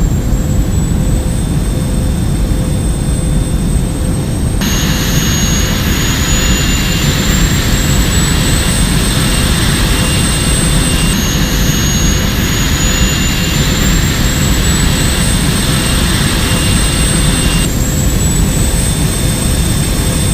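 An engine or motor running steadily at high power: a loud roar with a high whine that slowly climbs in pitch. The whine drops back abruptly three times, where takes are spliced.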